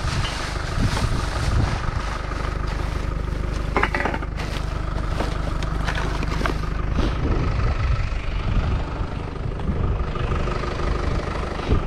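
Car engine and road rumble heard from inside the cabin while driving, with a few short knocks and rattles.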